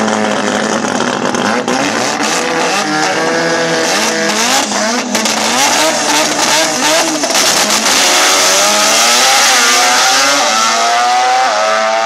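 Drag car's engine revving in short blips on the start line, then launching at full throttle about two-thirds of the way in, its note climbing in repeated rising sweeps as it accelerates away down the strip.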